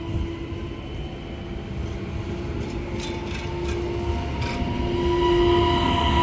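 Electric train moving through a station: a steady whine over rumbling wheel noise that grows louder toward the end, with a few sharp clicks about three to four and a half seconds in.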